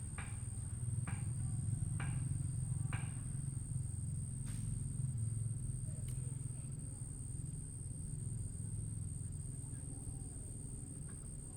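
Insects trilling steadily at a high pitch over a low rumble, with short falling chirps about once a second in the first three seconds.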